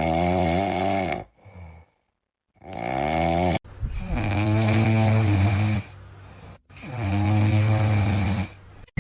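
A pet animal making a series of drawn-out, pitched vocal calls, each lasting one to two seconds with a wavering pitch and short silent gaps between them.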